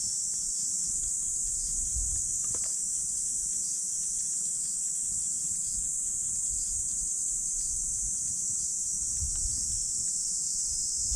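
Steady high-pitched chorus of insects chirping, with a low rumble of wind on the microphone.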